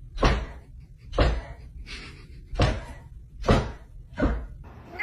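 A series of heavy bangs, five of them at roughly one a second, each sharp with a short ringing tail, like a door being banged repeatedly.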